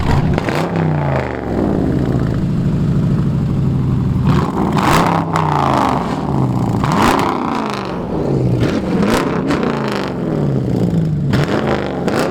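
A car engine revved over and over while standing still, each blip rising and falling in pitch, roughly once every one to two seconds.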